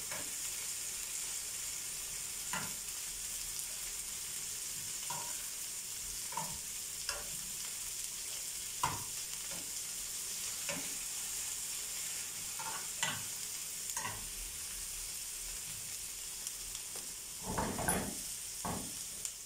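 Chopped peppers and sliced onions sizzling in oil in non-stick frying pans, a steady high hiss. A spoon scrapes and taps the pan every second or two as the food is stirred, with the loudest stirring near the end.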